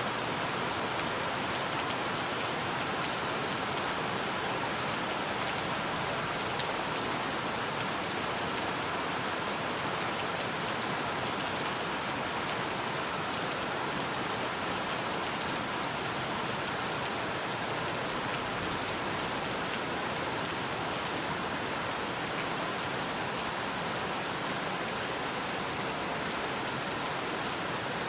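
Steady rain falling: an even hiss with the fine patter of many individual drops.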